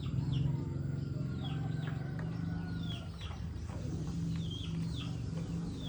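Birds chirping again and again in short falling calls over a steady, low mechanical hum.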